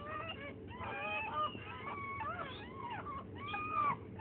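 Newborn bull terrier puppies squealing and crying: many short, high-pitched rising and falling squeaks overlapping one another.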